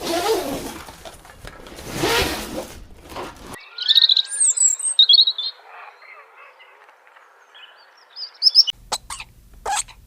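Three cut-together animal recordings. First comes a loud, harsh, noisy call lasting about three and a half seconds. After an abrupt cut there are a few high bird chirps, and near the end a run of short, sharp calls.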